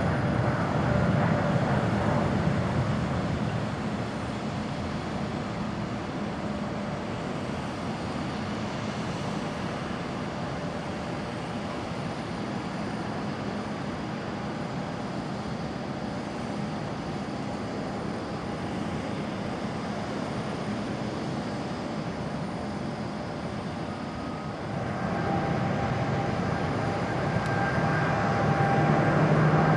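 Jet engine noise of a Boeing 787-8 airliner after take-off: a steady rushing that eases slightly in the first few seconds. About 25 seconds in, it gives way abruptly to a louder Boeing 777-300ER with steady engine tones over the rush, swelling towards the end.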